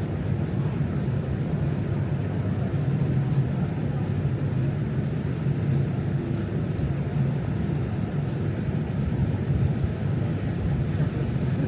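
Lake passenger boat's engine running with a steady low rumble.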